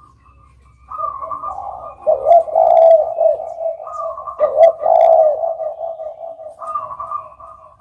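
Spotted dove cooing in repeated soft, wavering phrases. The loudest coos come about two and five seconds in, and the calling fades near the end.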